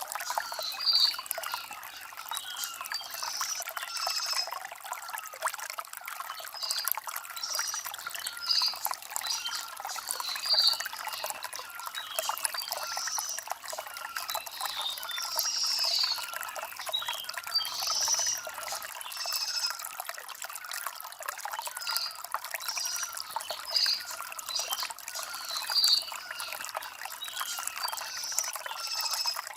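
Shallow stream of water trickling and babbling over stones, with small birds chirping briefly every second or two above it.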